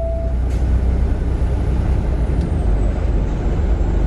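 Steady low rumble of a semi-truck's engine and road noise, heard inside the cab while driving at highway speed.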